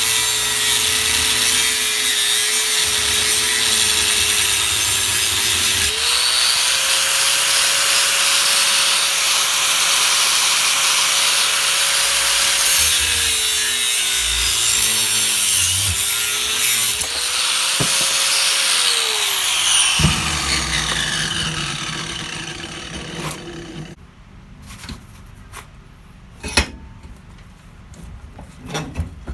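Electric angle grinder working sheet steel, a loud hissing grind over a steady motor whine that steps up in pitch about six seconds in and wavers later on. It switches off about two-thirds of the way through and winds down, followed by a few light metal clicks and knocks.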